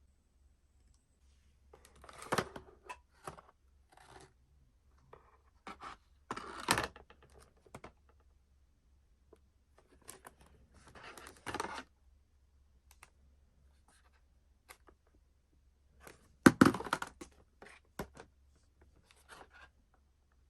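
Packaging rustling and crinkling in irregular short bursts as shopping is unpacked and handled. The loudest burst comes about three-quarters of the way through.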